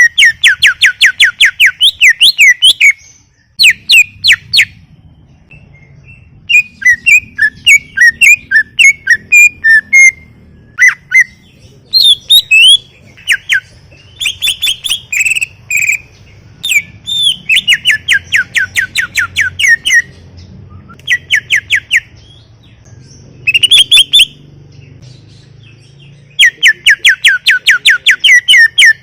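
Cucak ijo (green leafbird) in full song. It gives loud runs of rapid whistled notes, each sweeping downward, about five or six a second, lasting a couple of seconds at a time. Between the runs are varied chirps, twitters and short trills.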